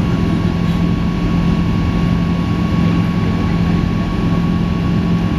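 Steady drone of an airliner's engines and airflow heard inside the cabin, with a constant low hum and a thin higher steady tone above it.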